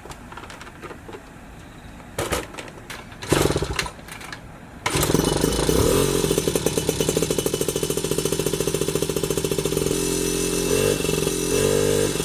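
Honda Motocompo's 49cc two-stroke engine, fitted with an aftermarket exhaust and high-flow air filter, being cold-started. After a few clicks and a brief scrape, it catches suddenly about five seconds in and runs with a fast, steady putter that wavers slightly near the end.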